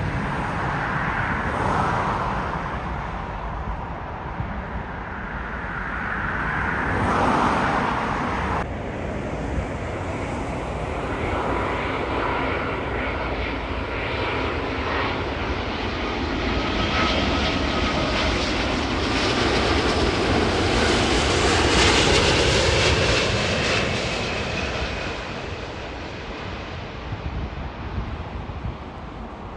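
Jet airliner's engines rumbling and whining as it passes, swelling to its loudest about two-thirds of the way through and then fading away. There is an abrupt change about a third of the way in.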